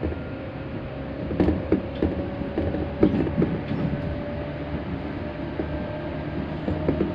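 Tobu 8000-series electric commuter train running between stations, heard from inside the car: a steady low rumble with a sustained mid-pitched tone, and irregular creaks and knocks from the car body and the wheels on the rails, the loudest about one and a half and three seconds in.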